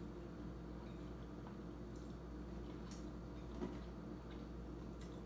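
Faint chewing and wet mouth sounds, with a few soft clicks spread through, over a steady low hum.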